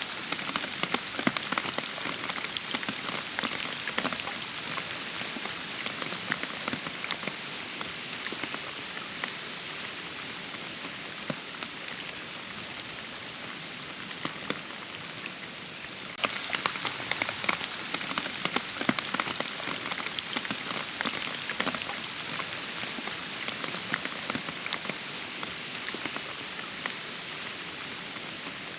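Steady rain with many sharp individual drops falling close by. About halfway through it suddenly gets louder, with more close drop hits.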